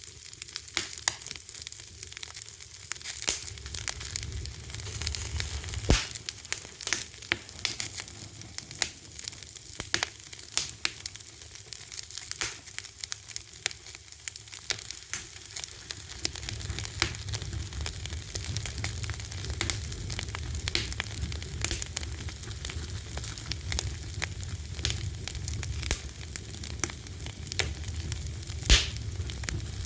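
Wood fire crackling, a steady hiss with frequent sharp snaps and a louder pop about six seconds in and another near the end, over a low rumble of the flames.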